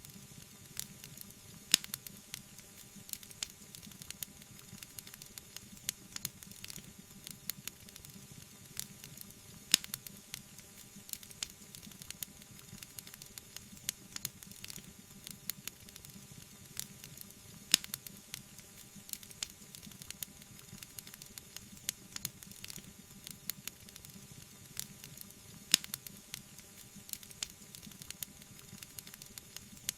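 Wood fire crackling steadily, a soft hiss under many small sharp pops, with four louder snaps evenly spaced about eight seconds apart.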